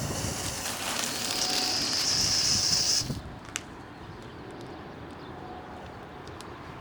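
Fuse of a Sky Painter smoke ball hissing as it burns, getting louder and sharper, then cutting off abruptly about three seconds in. After that there is only a faint steady hiss with a few small clicks.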